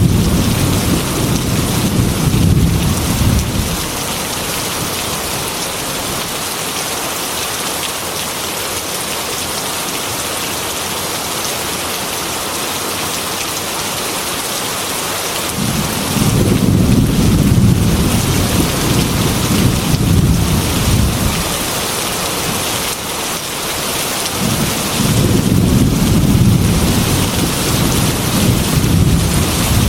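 Heavy rain beating against a glass window, a steady hiss, with three long rolls of thunder: one dying away a few seconds in, one about halfway through, and one near the end.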